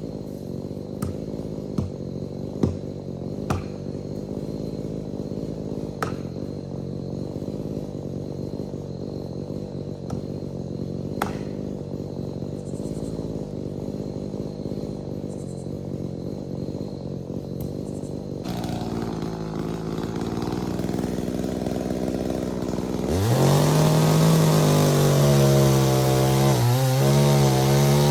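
Two-stroke chainsaw idling steadily, with a few sharp knocks over the first dozen seconds. About five seconds before the end it is revved to full speed, much louder, its pitch dipping and recovering as if working into wood.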